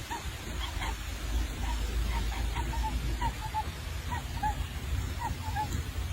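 A bird giving short calls over and over, roughly two a second, over a low rumble.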